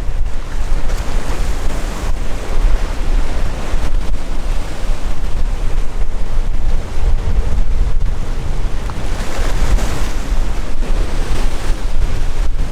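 Sea waves washing and breaking, with strong wind buffeting the microphone in a constant low rumble; the surf swells louder about a second in and again near the end.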